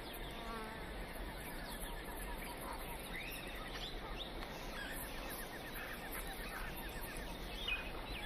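Forest ambience: birds chirping, with quick trains of high chirps and short rising calls over a steady background hiss.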